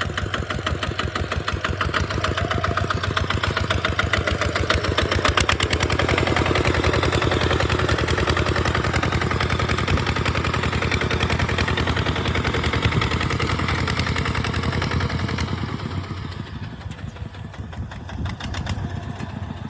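Tractor engine running with a steady, rapid firing beat, which drops noticeably in level about three-quarters of the way through.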